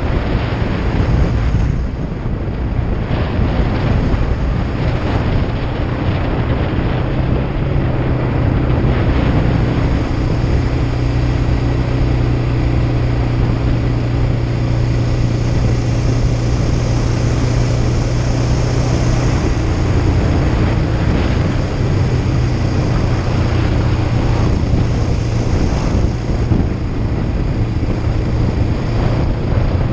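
Kawasaki Ninja 500's parallel-twin engine running under way at a fairly steady pitch, with wind rushing over the microphone.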